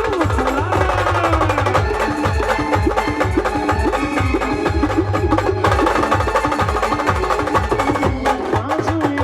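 A Marathi band playing music: a melody line that bends up and down over fast, dense drumming that runs without a break.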